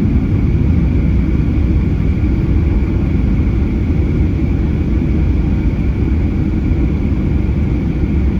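Steady cabin noise of a Boeing 737-800 on the ground with its engines at idle: a deep, even rumble with a faint high whine held on one pitch.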